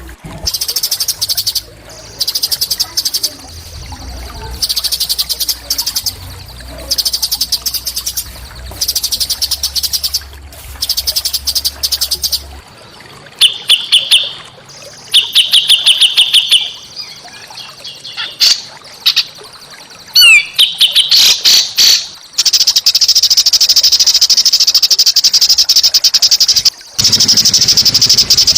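A small songbird singing very fast, high trills in repeated phrases of about a second each with short gaps, running into one long unbroken trill in the last third.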